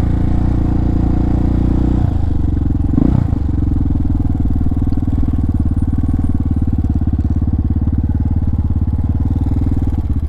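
Single-cylinder motorcycle engine idling steadily, settling into an even pulsing beat about two seconds in, with one short knock a second later.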